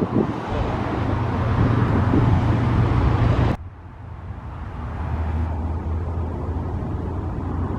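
Lorry engine running with a steady low hum. It drops away sharply about three and a half seconds in, then a quieter, steady engine hum builds back up.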